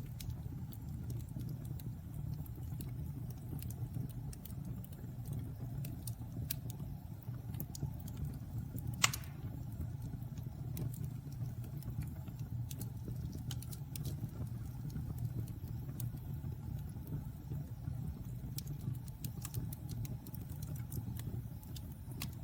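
Fire burning in a fireplace: a steady low rumble of flames with scattered crackles and one sharp pop about nine seconds in.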